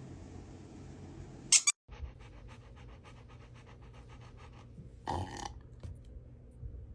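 A dog panting quickly, about seven breaths a second, after a brief sharp noise near the start; a short louder sound breaks in about five seconds in.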